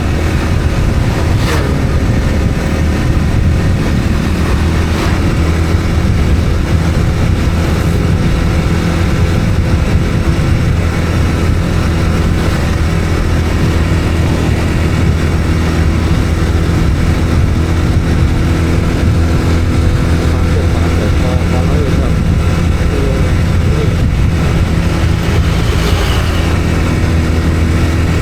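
Vehicle engine running at a steady speed while travelling, with a constant low hum and road and wind noise.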